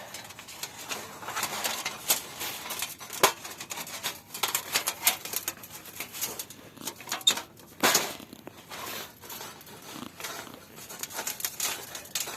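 Thin stainless-steel panels of a folding camp fireplace being handled and fitted together: irregular light clicks and metal taps, with a louder knock about three seconds in and another near eight seconds.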